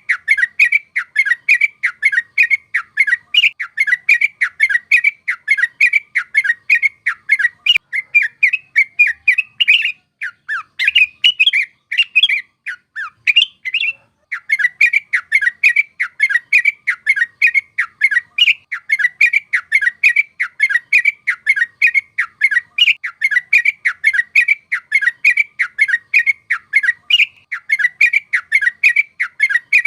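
Yellow-vented bulbul singing a continuous chattering song of quick repeated notes, about three a second. About ten seconds in, the song turns looser and more varied for a few seconds before the fast run resumes.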